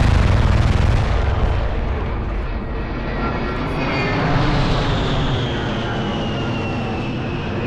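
A-10 Thunderbolt II jet with its twin turbofan engines running loud in a low pass. After about a second and a half the noise eases, and a high whine slowly falls in pitch.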